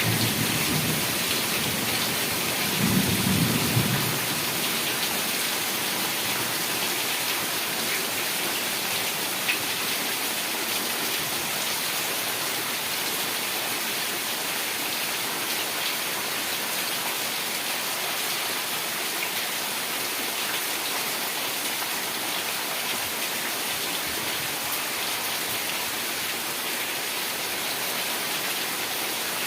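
Heavy rain falling steadily, an even hiss of many drops. A brief low rumble swells about three seconds in.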